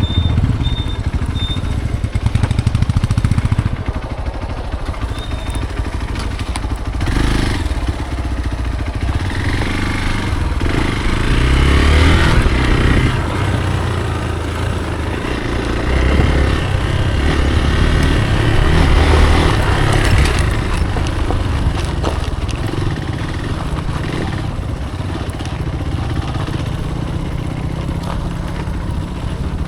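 Hero Xpulse single-cylinder motorcycle engine running while riding off-road, its level rising and falling with the throttle and louder between about ten and twenty seconds in.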